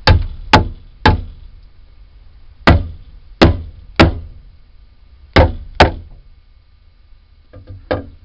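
Hammer tapping staples the rest of the way into wood: sharp strikes in groups of three, three and two, then a few lighter taps near the end.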